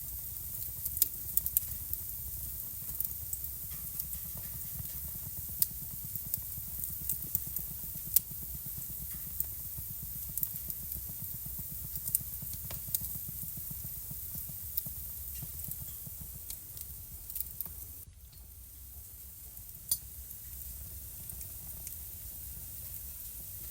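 Wood fire crackling in a fireplace: sharp, irregular pops and snaps over a steady low rumble and hiss of the flames. It goes briefly quieter about three quarters of the way through.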